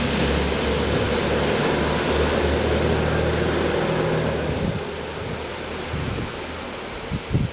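A train passing close by: a steady loud rumble with a low engine-like hum, which eases off about two thirds of the way through. Near the end, a few short thumps of wind on the microphone.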